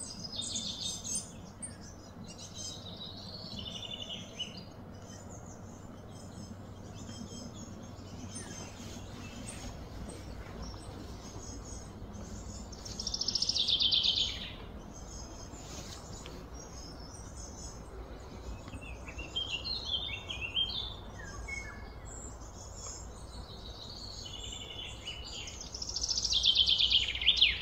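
Birds chirping and calling over a steady low background hum, with two louder rapid trilled phrases falling in pitch, one about halfway through and one near the end.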